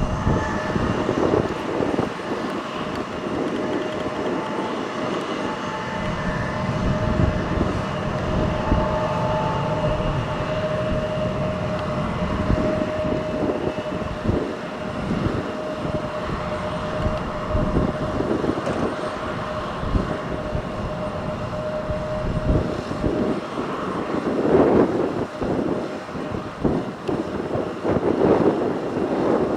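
Embraer 175 regional jet's turbofan engines running at low power for taxi: a steady engine whine with a constant rush of jet noise. Gusty wind rumbles on the microphone, swelling near the end.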